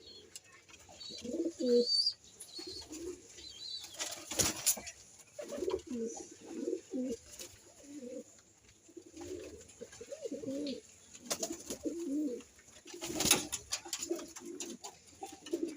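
Domestic pigeons cooing: short, low warbling calls repeated and overlapping one another. Twice, about four and thirteen seconds in, a brief sharp noise cuts across them.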